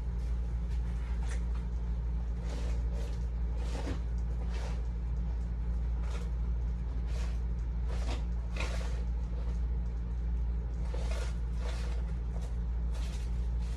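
Craft supplies and containers being rummaged through and handled: short scattered rustles and light clatters, a few of them sharper knocks, over a steady low hum.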